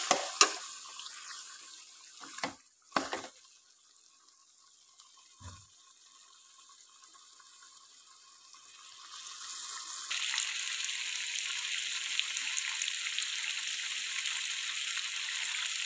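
Beef and spice masala sizzling as they fry in a hot karahi (wok), being bhuna-fried until the oil separates, with a few clicks of a metal spoon against the pan early on. The sizzle dies down almost to quiet, then builds back to a steady hiss from a little past halfway.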